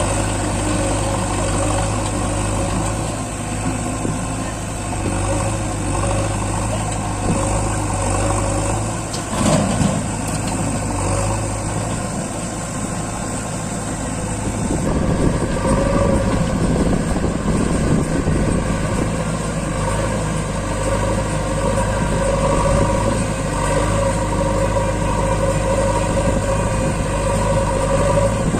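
Tractor diesel engine running steadily, with a brief knock about nine seconds in; about halfway through the engine grows louder and its note changes.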